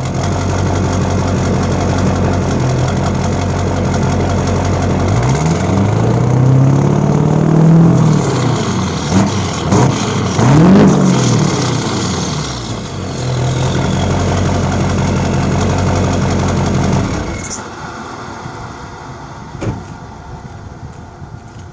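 Straight-piped 6.6-litre LB7 Duramax V8 diesel in a 2002 Chevrolet Silverado 2500HD, at operating temperature, idling, then revved twice: one longer rev that climbs, holds and falls, then a quick blip. It settles back to idle and the engine sound stops about three-quarters of the way through.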